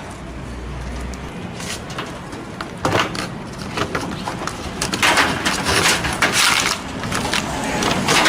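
Handling noise from parts of an LG washing machine's top lid assembly being worked on: a run of irregular clicks, knocks and scrapes, loudest in the second half.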